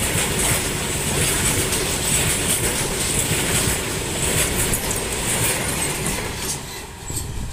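A freight train's covered goods wagons rolling past close by, with a steady loud rumble and the wheels clattering on the rails. The noise eases off near the end.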